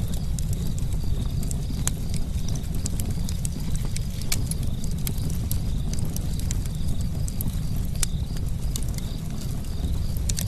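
Campfire crackling: wood popping and snapping in irregular sharp clicks, several a second, over a steady low rumble of the flames.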